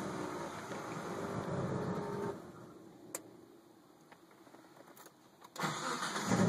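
Twin-turbo V6 of a Mitsubishi 3000GT VR-4 idling roughly just after a hot restart following about 20 minutes shut down. About two seconds in the engine sound falls away to faint, with a couple of sharp clicks. Near the end it comes back loudly, much as at the start just before.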